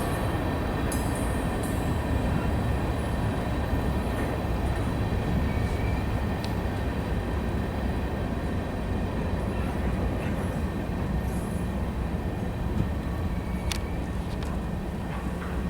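Norfolk Southern train rolling past, a steady rumble of wheels on rail with thin high ringing tones over it and a couple of short sharp clanks.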